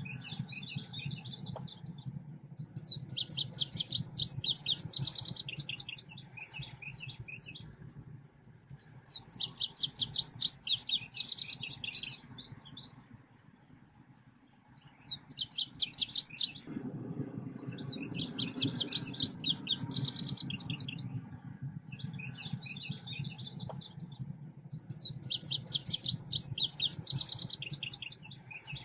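Recorded song of the bird known in Indonesia as selendang biru, used as a training and lure call: bursts of rapid, high chattering chirps, each two to three seconds long, come about five times with softer chirping between them. A steady low hum lies underneath.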